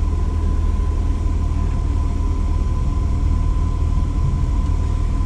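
Steady low background rumble with a thin, constant high tone above it, unchanging throughout, and no distinct clicks or handling sounds.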